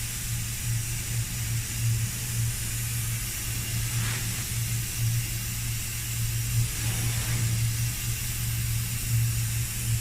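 Steady low machine hum under a constant hiss.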